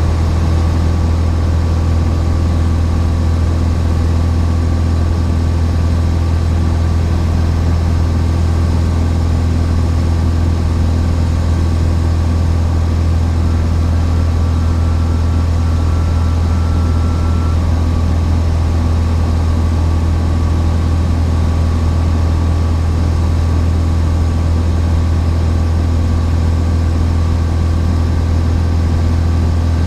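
Cessna 172's piston engine and propeller droning steadily in flight, heard from inside the cabin, with an even, unchanging pitch and level.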